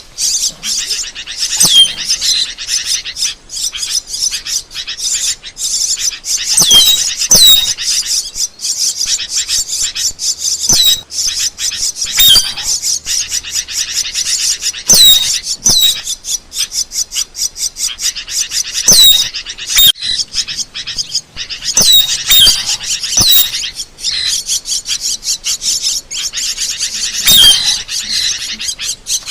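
Asian glossy starling calling: a dense, fast stream of high chattering and twittering, broken every second or so by sharp downward-sliding whistled notes.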